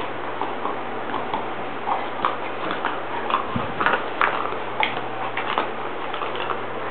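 Bernese Mountain Dog chewing a dental chew toy: irregular clicks of teeth biting on the toy, coming thickest in the middle and thinning out near the end.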